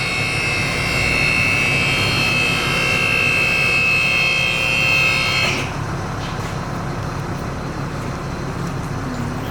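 A steady engine rumble with a loud, steady high-pitched whine over it; the whine cuts off suddenly about five and a half seconds in while the rumble runs on.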